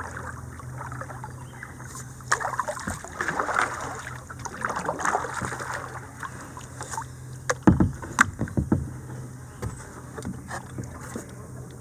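Kayak being worked through a shallow creek: paddle splashing in the water in irregular strokes, then two sharp knocks about two-thirds of the way through.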